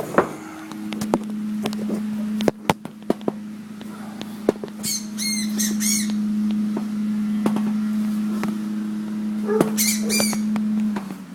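A trapped bird gives two short bursts of rapid squawking chirps, about five seconds in and again near the end. Under them runs a loud steady low hum that stops shortly before the end, with scattered clicks and knocks.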